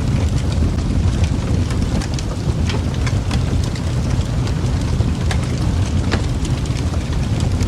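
Fireplace fire burning with a steady low roar and irregular sharp crackles and pops from the burning wood.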